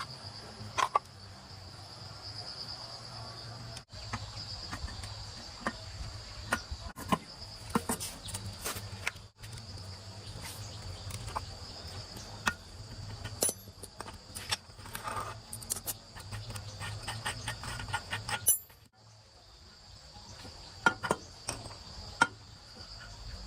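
Insects, crickets, chirring steadily at a high pitch, over scattered sharp clicks and light knocks of handling and work. The sound drops out briefly a few times.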